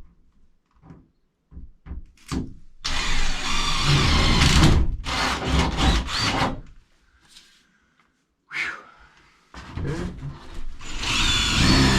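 Power drill running in two long bursts with a short pause between, drilling through the van's sheet-metal roof.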